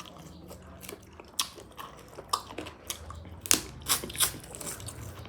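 A person eating egg curry close to the microphone: chewing with several sharp, wet mouth clicks and smacks, the loudest about three and a half seconds in.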